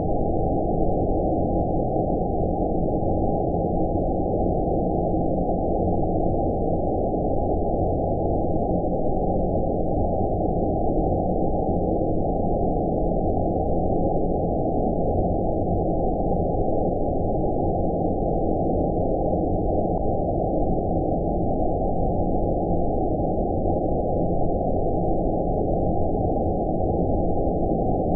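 Steady, deep, muffled rumbling noise with no high hiss, a 'space noise' sleep-aid track of filtered white noise. It holds level and does not change.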